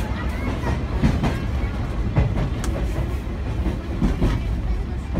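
Sagano Scenic Railway tourist train running, heard from inside a passenger carriage: a steady low rumble of wheels on the rails, with a few irregular clacks and knocks.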